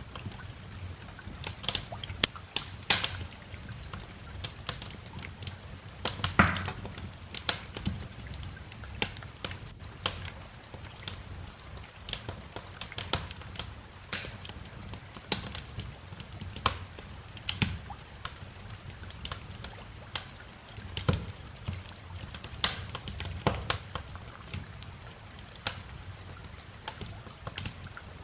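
Wood fire in a fireplace crackling and popping, with irregular sharp snaps over a low steady rumble.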